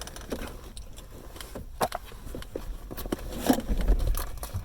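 Handling noise: scattered clicks, knocks and rustles as things are moved about, with a low thump near the end.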